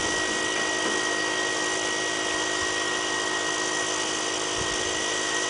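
Electric air pump running steadily, inflating a basketball to about 90 psi. Its even hum carries a high, steady whine.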